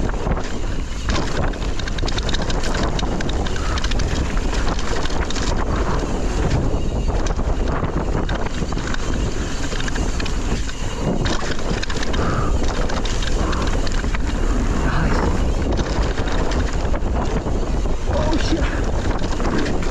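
Wind buffeting the microphone with a steady rush of noise while a mountain bike rides fast down a dirt trail.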